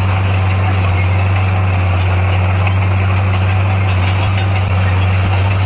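Heavy construction-machine diesel engine running steadily with a constant low hum.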